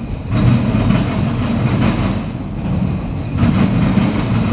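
Autorack cars of a CSX freight train rolling past: a steady rumble of steel wheels on rail. It swells about a third of a second in and again about three and a half seconds in.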